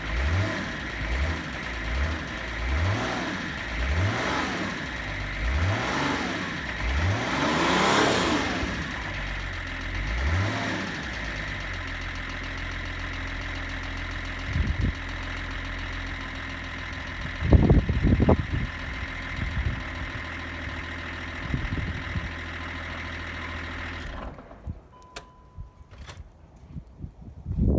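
BMW E39 525tds's 2.5-litre straight-six turbodiesel blipped about eight times in quick succession, each rev rising and falling, then settling to a steady diesel idle with a few loud knocks. Near the end the engine sound cuts away, leaving a few faint clicks.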